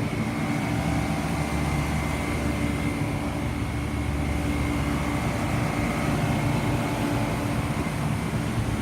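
Central air conditioner condensing units running together: a steady compressor hum under condenser-fan air noise, with a faint high whine held throughout.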